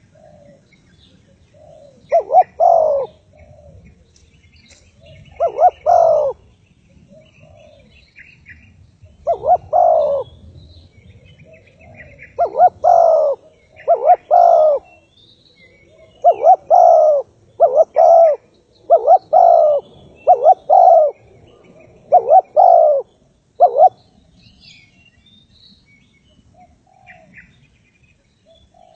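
Spotted dove cooing: a series of short, low coo phrases of one or two notes each, repeating every few seconds and coming closer together in the middle, with stillness after the last one. Faint high chirps of small birds sound in between.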